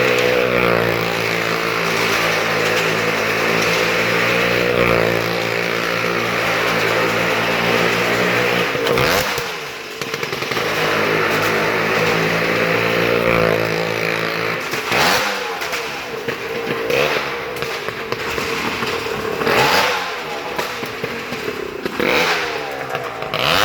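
Motorcycle engine running at a steady speed, then revving up and down several times in the second half.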